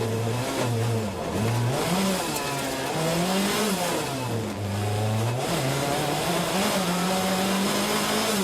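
Rally car engine revving, its pitch rising and falling several times as it accelerates, lifts and changes gear, then holding higher for a couple of seconds near the end.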